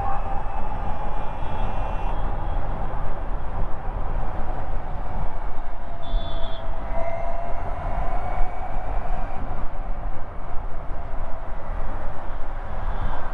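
Ather 450X electric scooter riding along: steady low rumble of wind and road noise, with a faint motor whine that slides down and up in pitch. A brief high beep about six seconds in.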